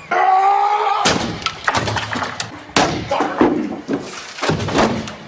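A man's long shout, rising in pitch, then a string of loud crashes and bangs as things are smashed and thrown about.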